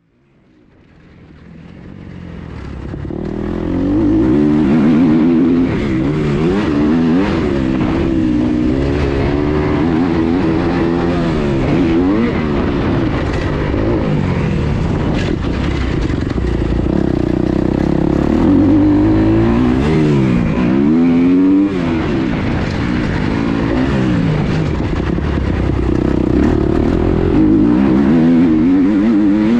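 Motocross bike's engine revving up and falling back again and again as it is ridden round a dirt track, heard from on the bike. It fades in over the first few seconds.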